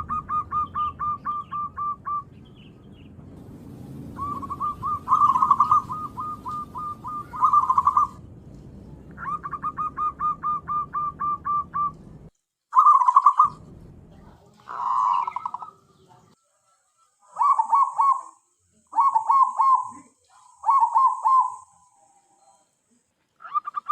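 Zebra dove cooing: repeated bouts of quick, evenly spaced notes with short pauses between bouts. A low hum sits under the first half and cuts off suddenly about halfway through.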